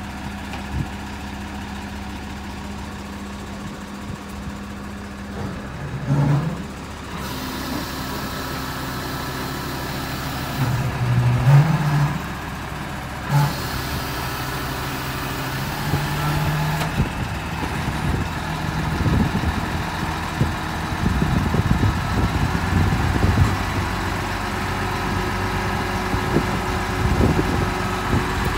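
Howo self-loading truck's diesel engine running, its pitch stepping up and down several times as it is revved, with irregular low knocking and rattling through the second half.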